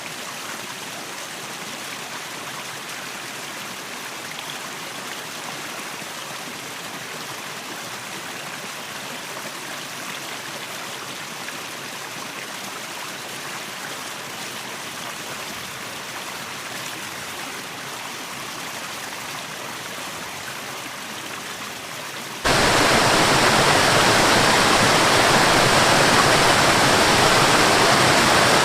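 Waterfall and stream water rushing steadily. About 22 seconds in it cuts abruptly to a much louder, fuller rush of falling water.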